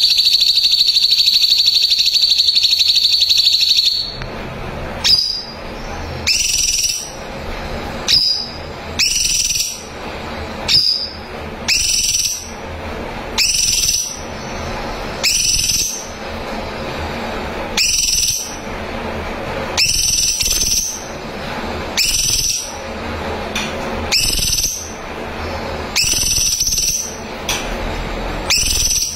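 Cucak cungkok singing: a loud, rapid high-pitched trill for about four seconds, then short high whistled notes repeated roughly every second and a half.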